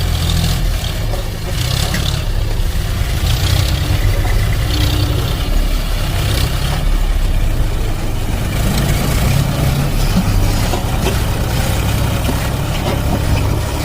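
A heavy engine running steadily with a low rumble.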